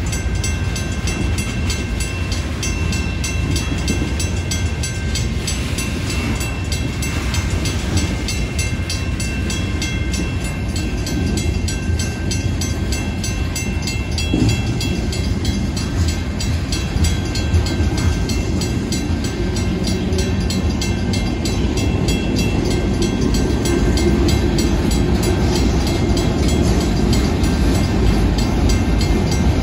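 Freight train of covered hopper cars rolling through a grade crossing: a steady rumble of wheels on rail with a fast regular clatter, and thin high ringing tones over it.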